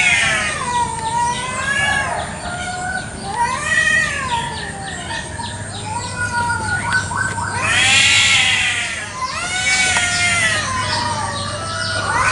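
Domestic cats yowling at each other in a territorial standoff: long, wavering wails that rise and fall in pitch, one after another, the loudest about eight seconds in.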